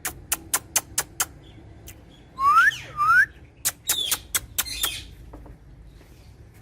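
A parrot making a quick run of about six clicks, then two rising whistles, then a few more clicks and a short harsh call.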